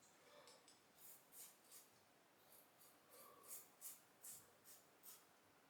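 Faint, quick scraping strokes of a Muhle Rocca safety razor with a Bluebird blade cutting stubble, about two strokes a second.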